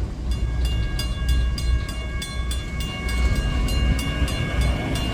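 Steam locomotive No. 89, a 2-6-0, passing with its bell ringing steadily at about three strokes a second over the low rumble of the engine and train.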